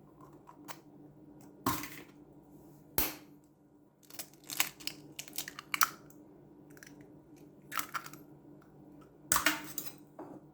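Eggs being cracked against the rim of a bowl, with the knocks and clicks of bowls and utensils being handled. The two loudest knocks come about two and three seconds in, over a faint steady hum.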